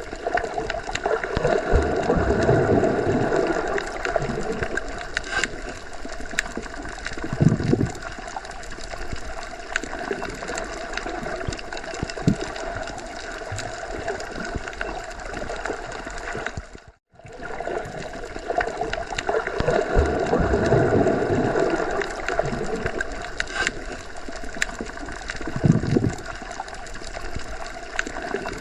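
Underwater sea ambience: continuous watery gurgling and bubbling with slow swelling surges and a few deeper whooshes. It runs as a loop of about 18 seconds, with a brief total dropout about 17 seconds in where the loop restarts.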